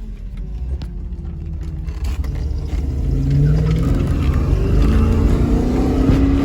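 A car engine accelerating, low and rumbling, getting louder from about two seconds in, its pitch rising through the second half.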